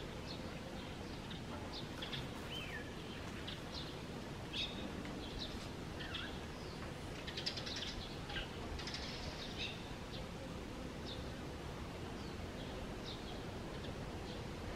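Small birds chirping on and off: short, high calls, some sliding down in pitch, over steady background noise.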